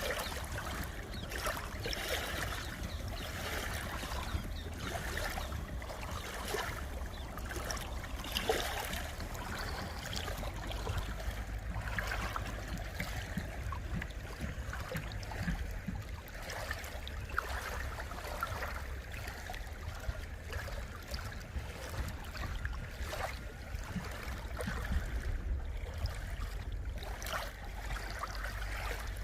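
Small waves on the Sea of Galilee, a freshwater lake, lapping and splashing irregularly over a steady low rumble.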